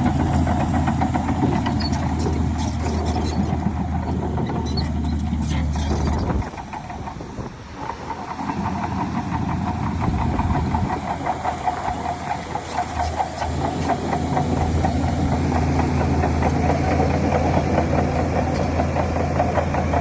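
Heavy diesel earthmoving engine running with a fast, even firing beat. It drops off sharply about six seconds in and builds back up over the next several seconds, as the machine eases off and then takes load again.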